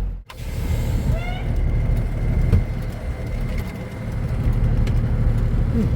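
Peterbilt 359's Cummins diesel engine running with a steady low rumble, heard from inside the cab. A short rising chirp sounds about a second in.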